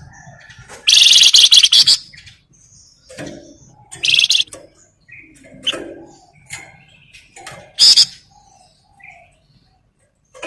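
A flamboyan songbird singing: three loud, rapid buzzing trills, the first about a second long starting about a second in, then shorter ones around four and eight seconds, with softer short chirps and calls in between.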